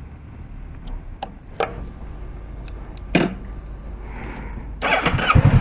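A few sharp clicks, then about five seconds in the Kawasaki Ninja 650's parallel-twin engine is cranked by its starter and catches, settling into a loud, evenly pulsing idle.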